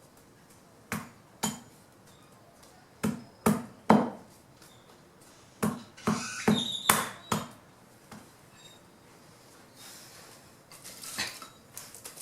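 Fallen branches being chopped by hand into wood chips: about ten sharp, separate strikes in uneven clusters, then a softer rustling near the end.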